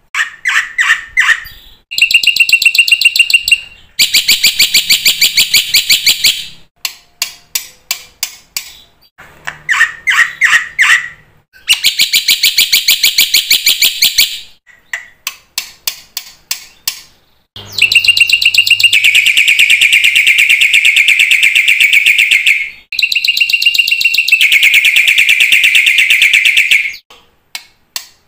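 Black-winged myna (jalak putih) in full, persistent song. Loud runs of short, sharp repeated notes alternate with long passages of very fast rattling trills, each a few seconds long.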